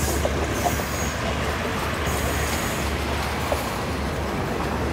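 Passenger train coaches running along the rails round a curve: a steady rolling rumble with a few brief squeaks.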